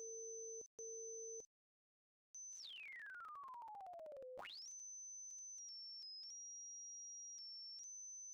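Electronically generated pure sine tones. A steady low tone at the pitch of the scale's Bb root plays along with a faint, very high tone, and both cut off about a second and a half in. After a short silence a high tone slides steadily down to a low pitch, sweeps quickly back up, and then holds high, stepping slightly down and up in pitch.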